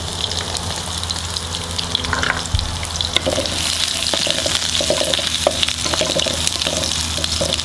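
Minced garlic and smashed lemongrass sizzling in hot oil in a pan, with a steady hiss. From about three seconds in, a wooden spatula stirs them, scraping and tapping against the pan.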